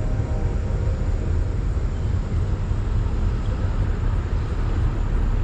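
Steady low rumble of a passing train.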